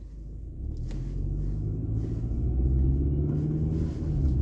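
Car engine and road rumble heard from inside the cabin, a low steady hum that grows louder over the first couple of seconds and then holds steady.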